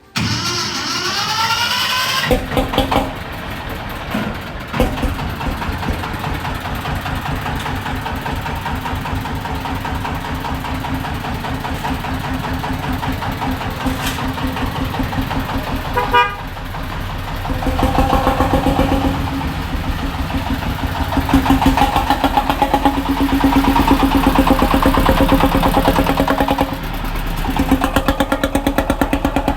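Modified rice-milling machine running: a rising whine in the first two seconds as it spins up, then a fast, even mechanical chatter with a steady droning hum that grows louder about halfway through.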